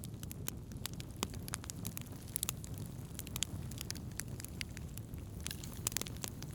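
Wood campfire burning, crackling with frequent irregular sharp pops over a steady low rumble.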